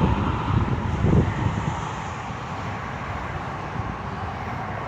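Steady freeway traffic noise, with wind buffeting the microphone, heavier in the first couple of seconds.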